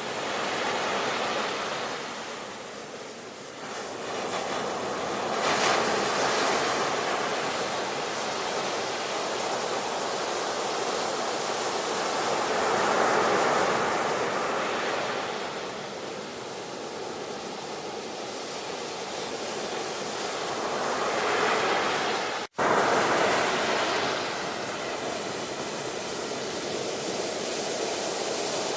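Ocean surf: waves surge in and wash back in several swells, each lasting a few seconds. A split-second dropout in the sound comes about two-thirds of the way through.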